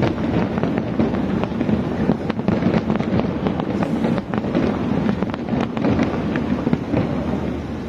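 Fireworks display: a continuous low rumble of booming shells with many sharp cracks and crackles, easing slightly near the end.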